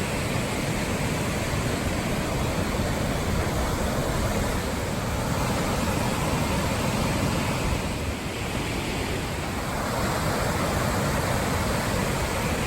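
Steady rushing of flowing creek water, a dense, even noise.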